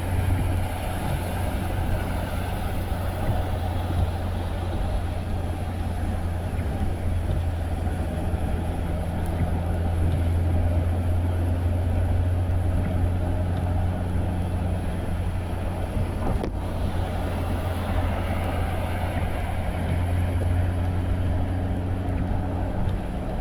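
A car driving at steady speed: a continuous low engine and road rumble with tyre noise, with one faint tick about sixteen seconds in.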